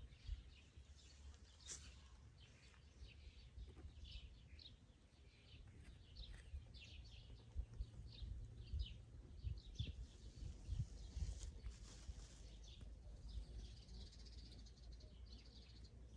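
Small birds chirping in short, repeated calls, faint, over a low steady rumble with a few soft low thumps.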